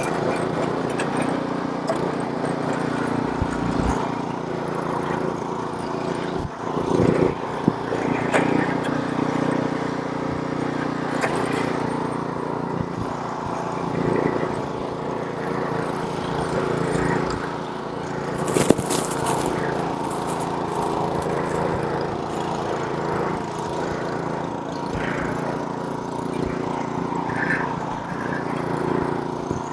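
Gas snowblower's small engine running steadily while clearing snow. About two-thirds of the way through there is a brief harsh burst of noise.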